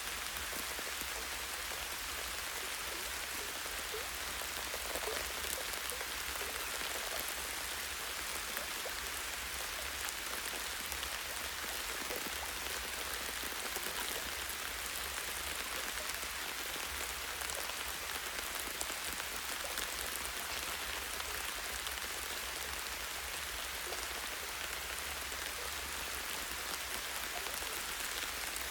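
Steady light rain, with fine drops pattering on leaves and branches as a continuous even hiss scattered with small drip ticks. A constant low rumble sits beneath it.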